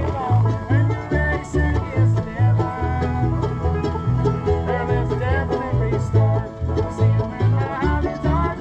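Bluegrass band playing an instrumental passage: banjo picking over strummed guitar, with a bass line of low notes changing about twice a second and a few sliding melody notes on top.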